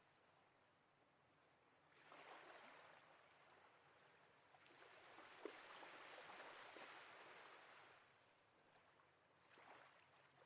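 Very faint sea water lapping in soft swells every few seconds, close to silence.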